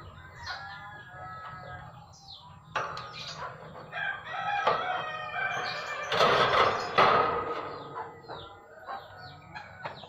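Birds calling: a long, loud call in the middle, with short high chirps around it.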